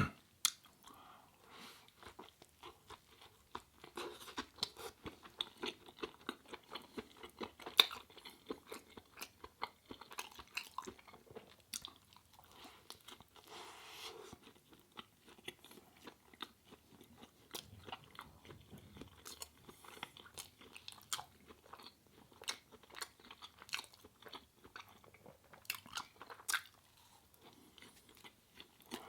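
Close-miked chewing and crunching of food: a steady run of irregular crunches and mouth clicks, with one sharper crunch about eight seconds in.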